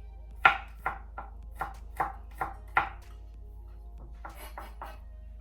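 Kitchen knife chopping on a cutting board: about seven separate strokes, roughly two a second, then a short run of quicker, lighter taps near the end.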